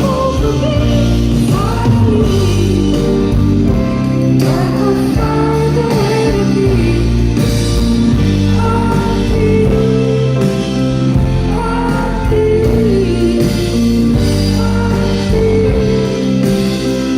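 Live band playing the closing section of a slow pop ballad: sustained chords under a woman's wordless sung vocal lines that glide up and down.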